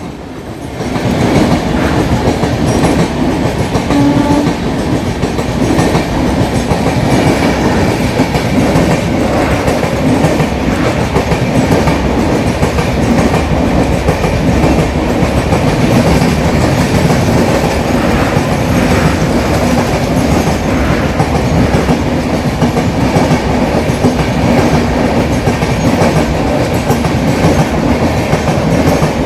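A train passing close by at speed, a loud, steady rumble of the coaches with the wheels clattering over the rail joints.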